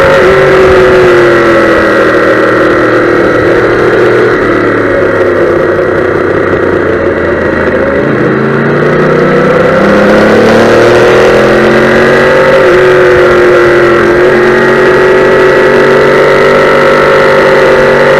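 Yamaha YZF-R1M's crossplane inline-four engine running hard on a track lap, picked up by a camera on the bike. The engine note falls over the first few seconds as the bike slows, then climbs again from about eight seconds in and holds high with brief dips.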